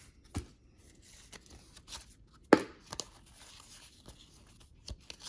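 Trading cards being handled on a table: scattered light taps and rustles, with a sharp snap about two and a half seconds in and another just after.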